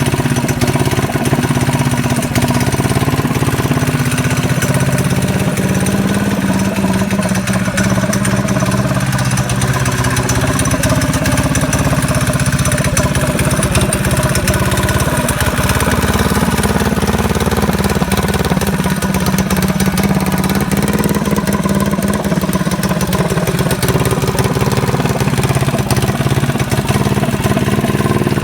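Modified 212cc Predator Hemi single-cylinder engine on a minibike, built with a racing camshaft, ported head and 24mm flat-slide carburettor, running at a steady idle with a loud, even note.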